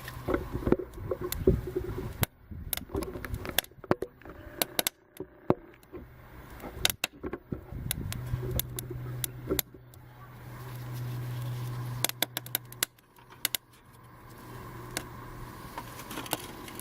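Burning bird's-nest tinder crackling with many irregular sharp pops. A low steady hum rises about eight seconds in and stops about five seconds later.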